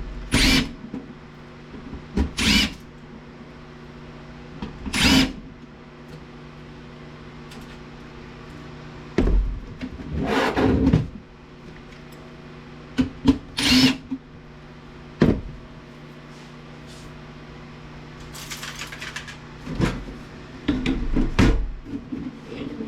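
Power screwdriver running in short bursts, about eight times, backing the screws out of a DVD player's steel case, over a steady low hum.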